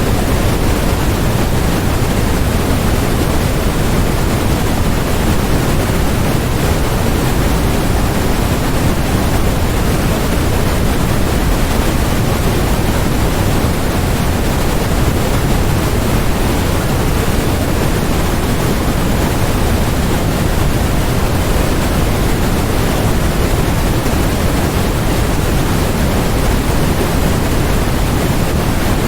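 Steady generated white noise: a constant, unchanging hiss, fuller in the low end than in the highs.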